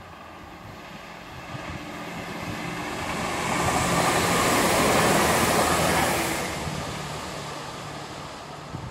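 A Turbo diesel multiple unit (Class 165/166) passing at speed: the rush of its wheels on the rails and its underfloor diesel engines swell to a peak about halfway through, then fade as it moves away. Wind buffets the microphone briefly near the start and near the end.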